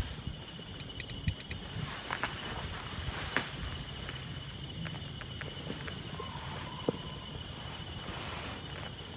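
Insects trilling steadily in a high, even drone, with scattered light clicks and knocks of handling or footsteps.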